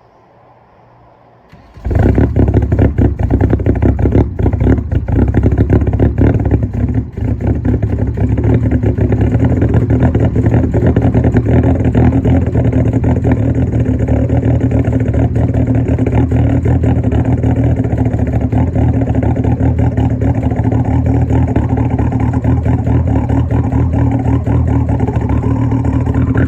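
Straight-piped 1.9 L ALH TDI diesel of a 2003 VW Jetta cold-starting at about −35 after sitting unplugged: it catches about two seconds in, runs unevenly with a couple of dips in the first few seconds, then settles into a loud, steady diesel clatter at idle.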